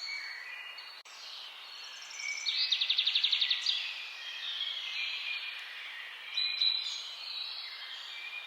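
Several wild birds singing and calling over one another. A loud, fast trill of about ten notes a second comes in about two and a half seconds in and lasts just over a second, and a sharp short call follows a few seconds later.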